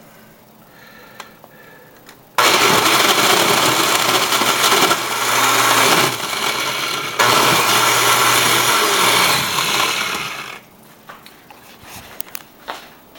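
Countertop blender crushing ice. It starts abruptly about two seconds in, eases off briefly midway, runs hard again, then winds down a few seconds before the end.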